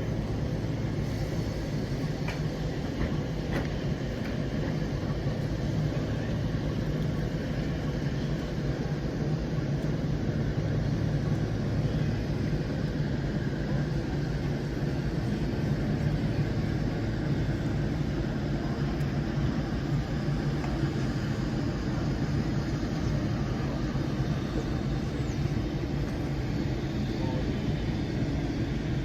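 Steady, continuous rumble of a moving train, a low drone with running noise above it.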